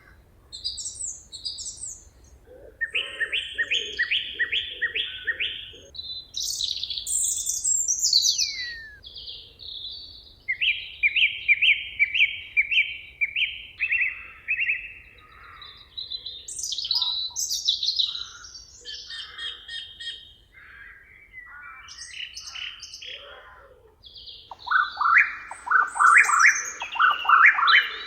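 Several songbirds singing in turn and overlapping, each phrase a quick run of repeated notes. One bird gives a falling whistle about eight seconds in, and the song is loudest near the end.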